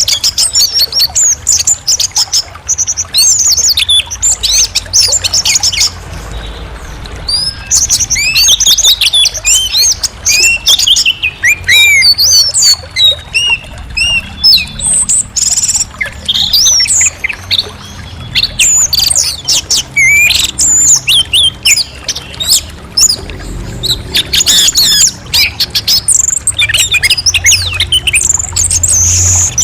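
Orange-headed thrush singing: a fast, varied run of rising and falling whistled notes, broken by a few short pauses.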